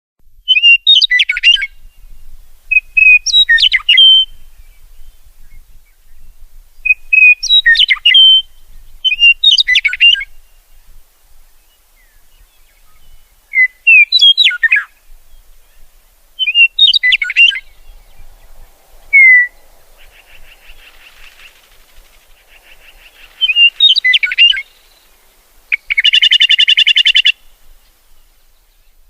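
A songbird singing short, quick, whistled phrases that repeat about every two to three seconds. Near the end there is a harsh buzzy call lasting about a second.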